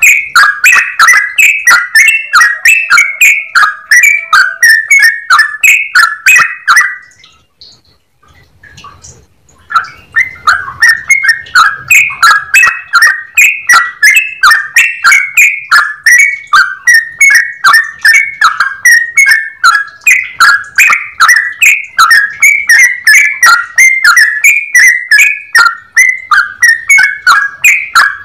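Yellow-vented bulbul (trucukan) singing a rapid, continuous run of short chattering notes, several a second, in the long 'ropel' song style; it breaks off for about two seconds roughly a quarter of the way in, then resumes.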